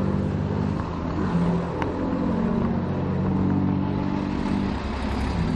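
Rally truck's diesel engine running at the start line, its steady low note dipping in pitch and coming back up about a second in and again near the end.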